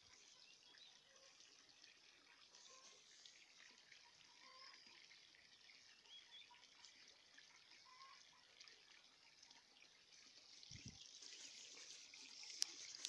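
Faint trickle of running water with small bubbling blips, a little louder in the last few seconds, and one sharp click near the end.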